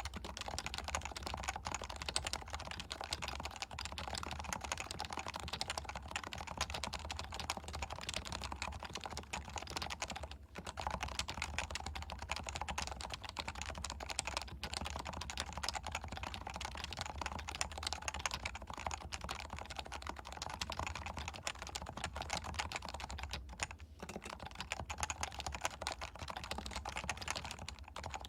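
Continuous typing on a Leopold FC660C keyboard with stock, non-silenced 45 g Topre electro-capacitive switches, recorded through a Shure MV7 microphone. Keystrokes come in a dense, steady stream, with brief pauses about ten seconds in and again near the end, over a steady low hum.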